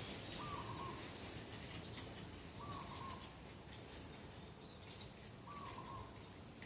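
A dove cooing: three short coos, one about every two and a half to three seconds, over faint high-pitched chirping in the background.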